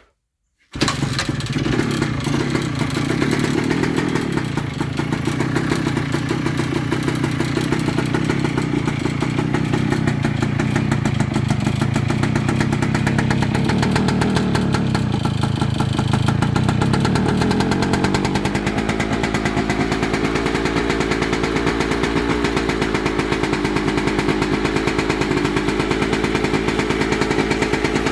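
1998 Kawasaki KE100's single-cylinder two-stroke engine starting from cold about a second in, then running steadily. It carries a ticking from the cylinder that the owner cannot identify.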